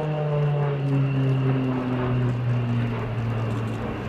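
Short Tucano T1's Garrett TPE331 turboprop and propeller passing by, the pitch falling steadily and the sound slowly fading as the aircraft goes away, with a steady high whine above it.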